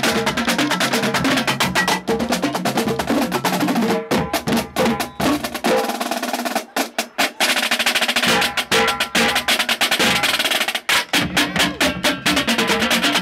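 Marching drumline playing a fast cadence, dense rapid snare drum strokes and rolls over pitched drum notes, broken by short stretches of separate unison hits about a third of the way in, around halfway and again near the end.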